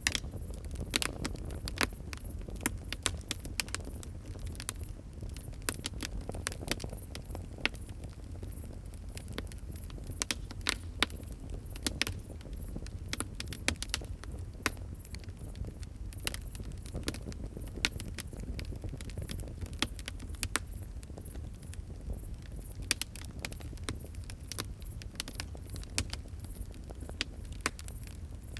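Fire crackling: irregular sharp pops and snaps, several a second, over a steady low rumble of the flames.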